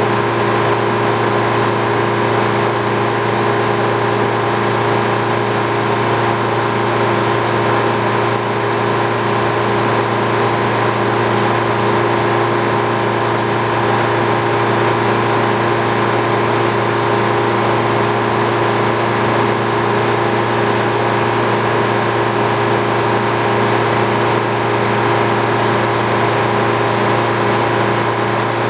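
Old Frick sawmill running, its machinery making a constant hum with several steady tones, unchanging in pitch and level.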